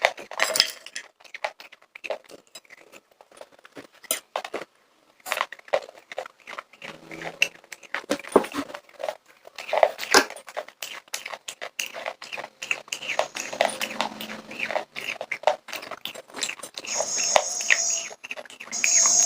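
Popcorn being chewed close up: irregular crisp crunching and crackling.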